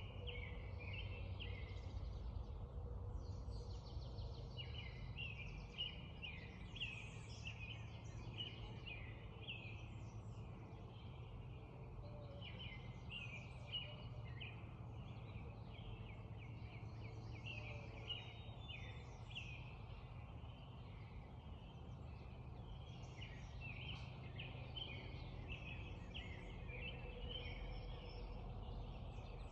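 Dawn chorus of songbirds: many quick, repeated chirps and trills overlapping almost without a break, over a steady low rumble of background noise.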